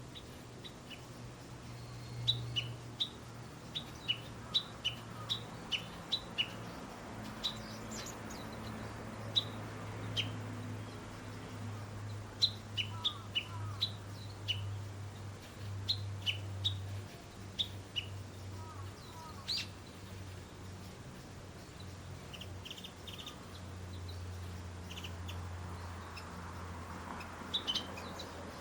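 Small songbirds giving short, high chirps in irregular runs, over a low steady hum.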